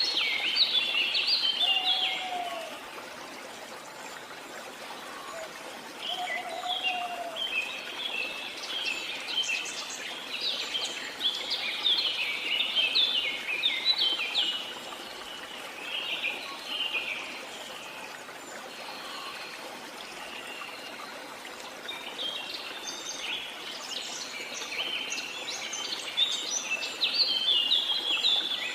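Songbirds chirping and twittering in rapid bursts that come and go, with a few lower whistled notes early on. Underneath runs the steady rush of a waterfall.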